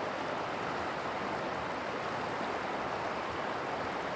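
Steady rushing of river water flowing over shallows, an even hiss with no breaks.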